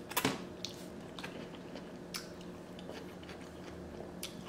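Close-miked mouth sounds of someone biting into and chewing a mouthful of saucy seafood boil, with a sharp wet click just after the start and a few fainter clicks later.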